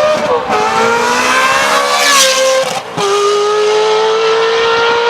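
Ferrari F430's 4.3-litre V8, straight-piped with the mufflers deleted, pulling hard. Its pitch climbs, drops sharply twice (about half a second in and near three seconds in) and climbs again. It is loud, though the higher F1-style scream is missing.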